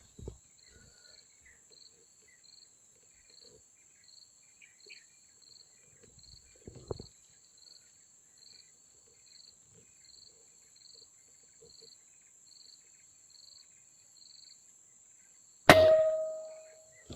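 Insects chirping in a steady pulsing rhythm, about two chirps a second, with a faint steady high hiss. Near the end one sharp air rifle shot, with a metallic ring that fades over about a second.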